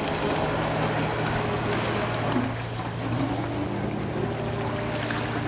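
Jet ski engine running steadily at speed under a steady rush of wind and water. The engine note dips and shifts briefly about halfway through, then steadies again.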